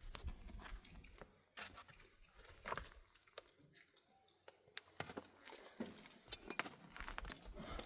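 Irregular clicks, knocks and scraping from materials being handled by hand, faint, typical of work on the wooden roof beams.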